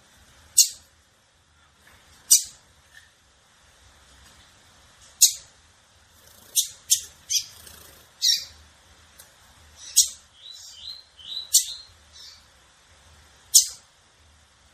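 Small seedeaters (coleiro and female lined seedeater) calling: about ten sharp, high single chips a second or two apart. Soft twittering comes in between them from about two-thirds of the way through.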